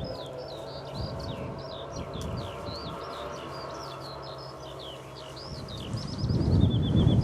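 A songbird singing a continuous run of quick, varied chirps over a steady low hum. About six seconds in, a loud low rumble builds up.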